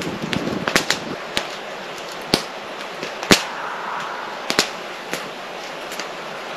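Campfire burning with a steady hiss, the wood crackling and giving off irregular sharp pops, the loudest two a second apart in the middle.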